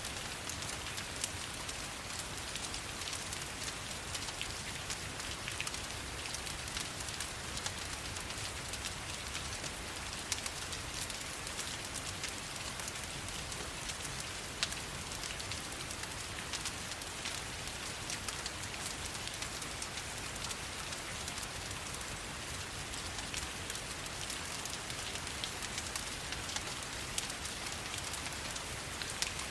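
Steady rain falling, a continuous even hiss, layered with a wood fire whose sharp crackles and pops come at scattered moments.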